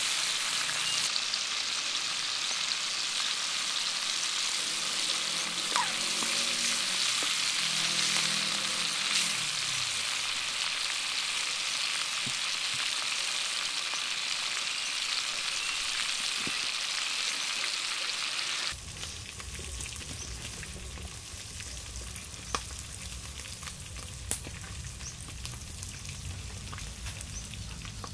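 Chopped food frying in oil in a metal pan over a wood fire, with a steady sizzle as it is stirred with a wooden spatula. About two-thirds of the way through the sizzle cuts off suddenly, leaving a low rumble and a few light clicks.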